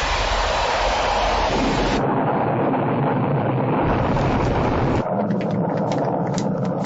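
Rocket launch: a steady, loud rush of engine noise that changes abruptly about two and five seconds in, with crackling clicks after the second change.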